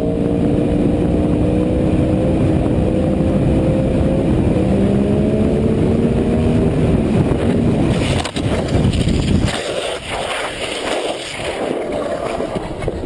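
A motor vehicle engine accelerating hard, its pitch climbing, dropping once about four seconds in as at a gear change, then climbing again. After about eight seconds the engine gives way to a rough, rushing clatter.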